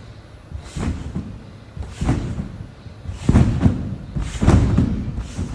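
Trampoline bed and springs thudding with each bounce, four bounces about a second and a quarter apart, the last two loudest.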